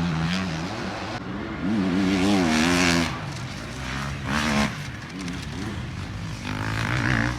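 Enduro dirt bike engine revving up and down in repeated bursts. The pitch climbs about two seconds in, again around four and a half seconds, and near the end.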